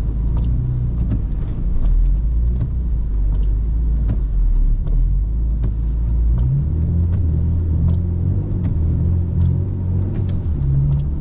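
BMW E39 sedan's engine running with a steady low drone while driving through snow. About two-thirds of the way in, the drone steps up in pitch as the revs climb.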